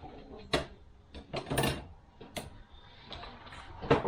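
Automatic transmission clutch discs and steel plates being handled and stacked on a workbench: a few separate sharp clicks and clatters a second or so apart.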